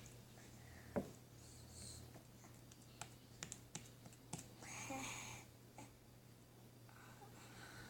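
Slime and its containers being handled: faint, scattered clicks and small taps, one about a second in and a cluster between three and four and a half seconds in.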